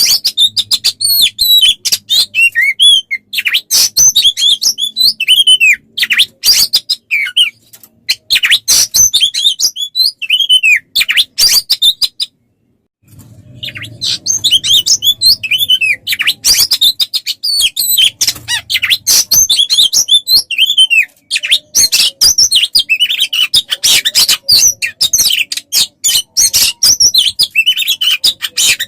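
Songbird song from a masteran training recording for Oriental magpie-robins: loud, rapid chirps, trills and downward-slurred whistles, broken by a brief silence about twelve seconds in.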